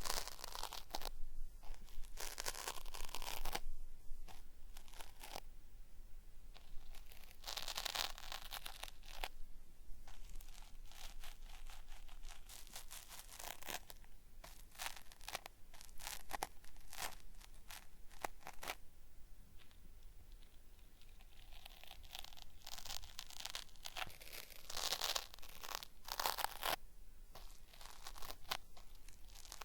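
Cotton swab rubbing and scraping in the ear of a binaural microphone, making a dense crackly, peeling-like crunching, the 'beri-beri' ear-cleaning sound. It comes in uneven spells, loudest a couple of seconds in, around eight seconds in, and again for a few seconds near the end.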